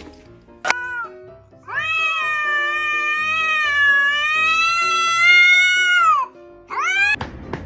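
A cat meowing: a short meow, then one long drawn-out meow lasting about four seconds, then a short rising meow near the end. Background music plays under it.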